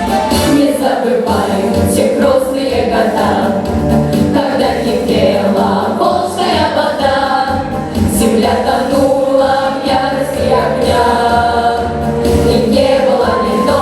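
A vocal ensemble singing a slow song in chorus over an instrumental backing with sustained bass notes.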